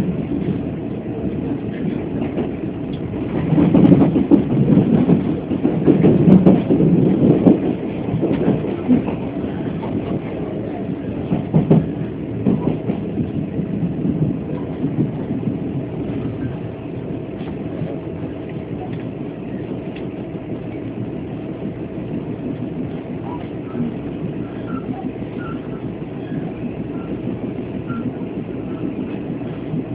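Chu-Kuang express passenger carriage running on the line, heard from inside the coach: a steady rumble of wheels on rails that swells louder for a few seconds near the start, with a sharp knock about twelve seconds in.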